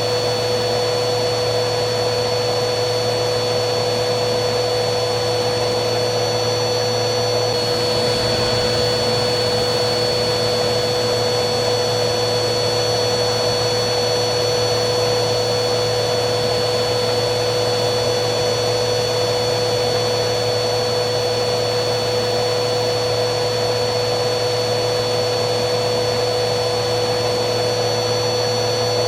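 Vacuum cleaner motor running steadily: a constant rushing whine over a low hum. About a quarter of the way in, the high whine shifts slightly in pitch.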